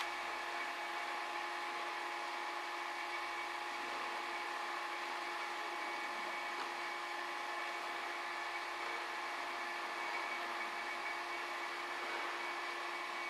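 Steady, even hum of running machinery at a constant pitch, while oil and sealant are injected into a vehicle's air-conditioning system.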